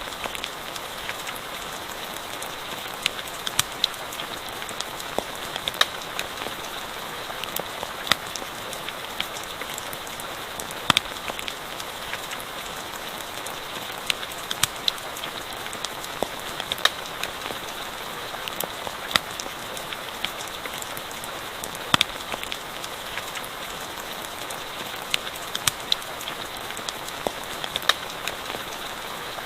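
Steady rain hiss with sharp, irregular pops and crackles of a wood campfire scattered through it.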